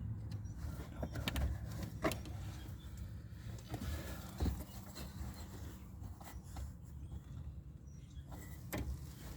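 Scattered light clicks and knocks of hands and tools handling small parts, over a low steady rumble.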